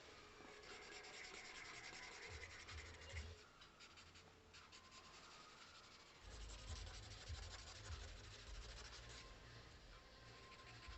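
Faint pencil strokes scratching on paper, a quick back-and-forth rub of shading, in two spells with a short lull near the middle.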